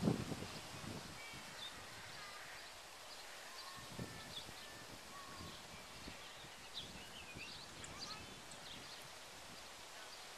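Quiet rural outdoor ambience: small birds chirping in short, repeated calls, with a few faint thumps. A low wind rumble on the microphone dies away in the first second.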